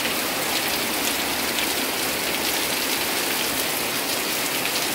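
Heavy rain pouring down steadily: a dense, even hiss of falling rain with scattered sharper drop hits.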